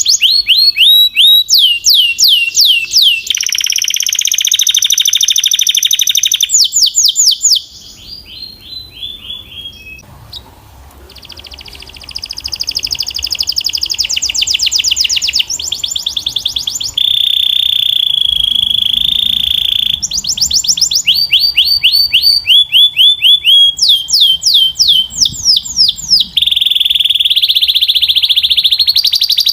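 Belgian canary singing: fast trills of rapidly repeated falling notes, the song changing phrase every couple of seconds, with a softer passage about eight seconds in and some steady held notes in the middle.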